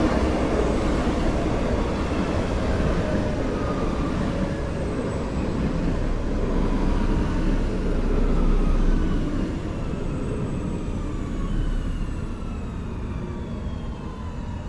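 X60 electric commuter train moving along the platform: a steady rumble of wheels on rail with several electric motor whines falling slowly in pitch as it slows. The sound eases off somewhat after about nine seconds.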